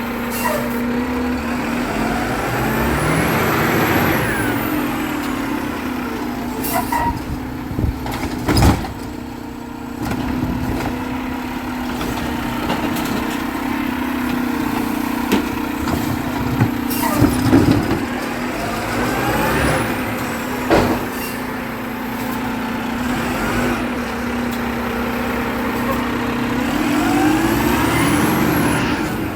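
Garbage truck running close by: a steady engine hum with rising and falling whines, broken by several sharp clanks and knocks.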